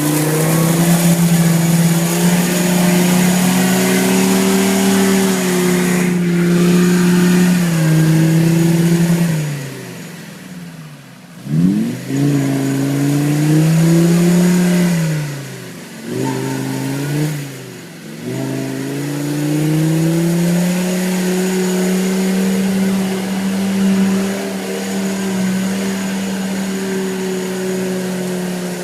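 UAZ off-roader's Mercedes OM617 3.0 five-cylinder diesel engine working hard under load, its revs held high, then falling away sharply about ten seconds in and climbing back, dipping twice more before running steady again.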